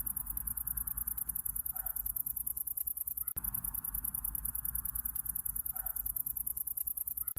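Night-time insect chorus: crickets chirping in a fast, even, high-pitched pulse over a low steady rumble, with a couple of faint short calls in the middle range.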